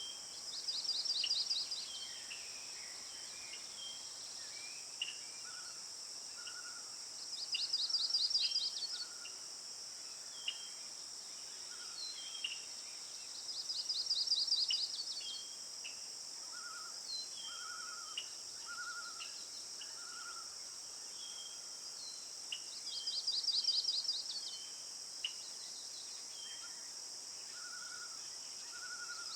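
Songbirds chirping and calling over a steady, high insect drone, with a rapid pulsed trill of about a second and a half repeating every several seconds and scattered short chips and lower notes between.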